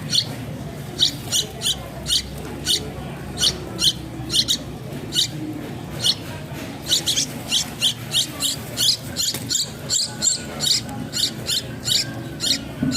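Young, newly feathered chicks giving short high-pitched peeps, repeated a few times a second and coming faster and more densely in the second half, over a low steady hum.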